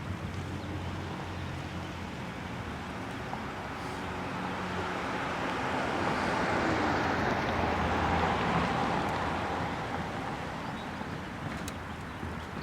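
Vehicle noise that swells to its loudest about halfway through and then fades, like a vehicle passing by, over a steady low hum.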